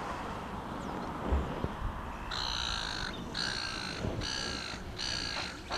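A bird calling repeatedly: about four calls, each roughly half a second long, starting about two seconds in.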